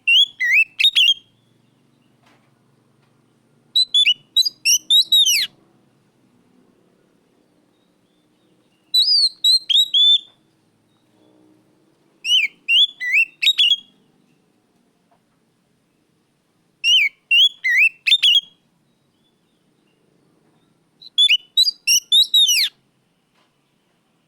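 Oriental magpie-robin (kacer) singing loud, clear whistled phrases: six short bursts of quick, sharply gliding notes, each about a second long, with pauses of a few seconds between them.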